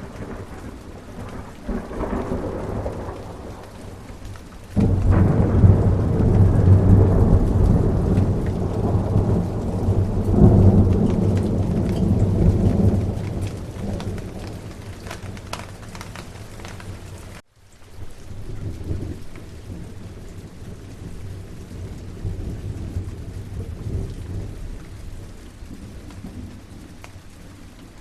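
Steady rain with thunder. A loud peal begins suddenly about five seconds in and rumbles on for several seconds before fading, followed by softer distant rumbles. The sound cuts out for an instant about two-thirds of the way through.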